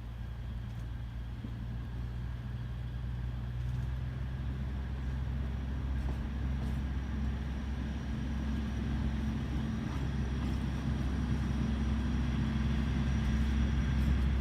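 Alishan Forest Railway diesel locomotive running with a steady low rumble that slowly grows louder.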